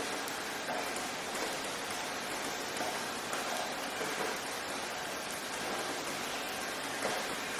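Steady rain falling, an even hiss with individual drops pattering on a surface.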